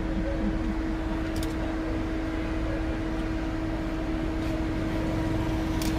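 A motor or fan running steadily: a constant hum with a steady mid-pitched tone over a low rumble, and two faint ticks, one about a second and a half in and one near the end.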